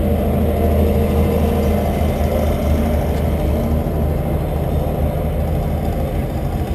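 Pulling truck's engine idling steadily at the starting line before a pull.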